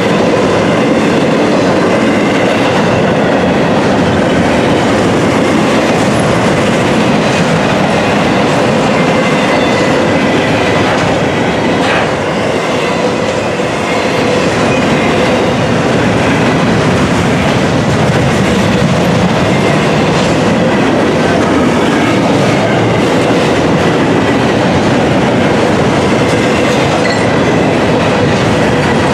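Double-stack intermodal well cars of a long freight train rolling past at speed: a steady, loud rumble and clatter of steel wheels on rail joints, with a faint steady whine above it.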